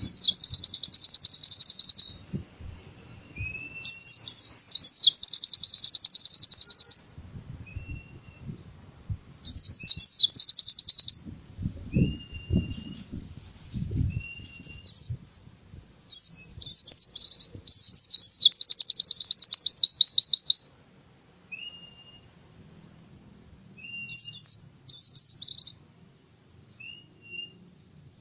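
White-eye (pleci) singing energetically: loud bouts of very fast, high trills two to three seconds long, broken by short single whistled notes and quicker chattering phrases toward the end. A few faint low knocks come in the middle.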